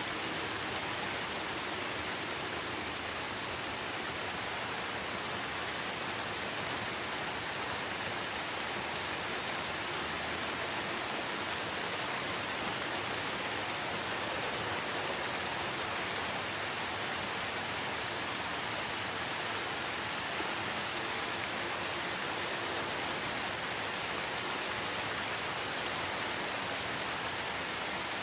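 Steady, heavy rain falling, an even hiss that does not change, with a couple of faint ticks.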